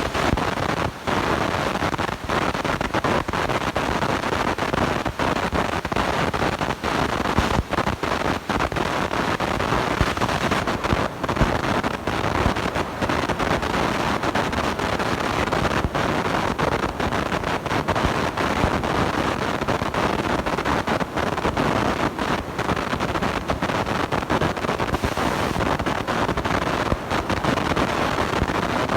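Steady distorted noise from a blown microphone, broken by frequent brief dropouts.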